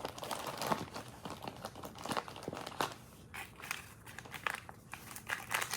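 Rustling and crinkling of small packets and bag contents being handled, with irregular small clicks and taps.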